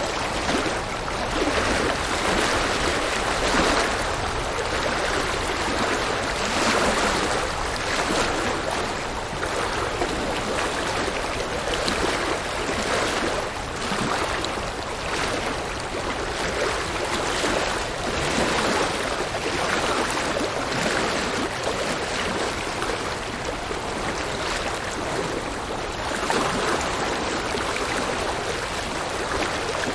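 River water rushing and babbling over rocks, a steady dense rush that swells and ebbs gently every few seconds.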